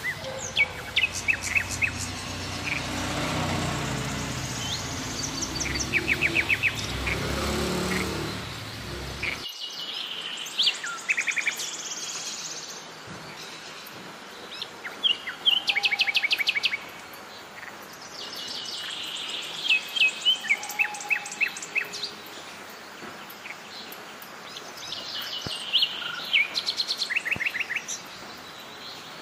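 Birds chirping in short, rapid trilled phrases repeated every few seconds. A low background rumble under them stops abruptly about nine seconds in.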